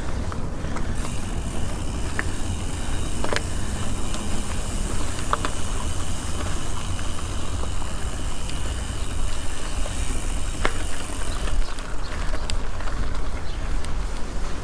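Riding a mountain bike: wind rumbles on the microphone while a steady hiss of tyres and drivetrain runs from about a second in until near the end, with a few sharp clicks from the bike.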